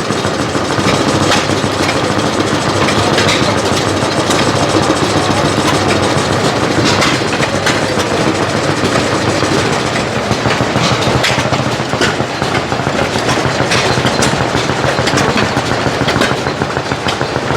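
Small steam engine running, a steady mechanical clatter with many irregular sharp clicks.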